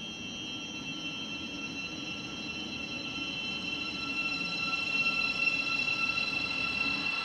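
Approaching train: a steady high-pitched whine of several tones over a low rumble, growing gradually louder.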